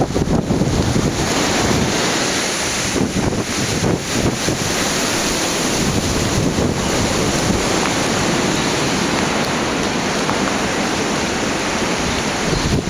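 Steady rush of flowing stream water, with a low rumble in the first second or two.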